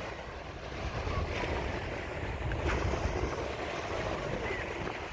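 Surf washing onto a sandy beach, with wind rumbling over the microphone.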